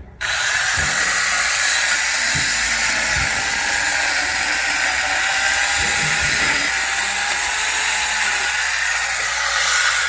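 Electric chainsaw made from an angle grinder with a chainsaw-bar kit, cutting through a thick log. It starts abruptly and runs steadily at full speed.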